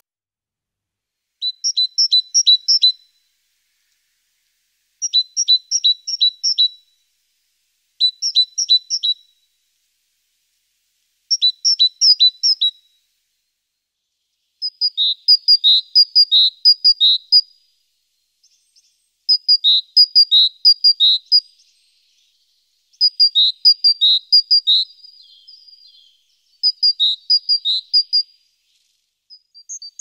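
A small songbird singing, one phrase of quick, high, repeated notes every few seconds, eight phrases in all; the phrases get longer in the second half.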